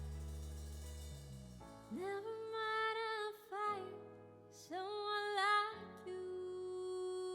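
Live band music in a slow ballad: a low held chord fades away, then a female singer sings long held notes that bend and slide between pitches, ending on one steady held note.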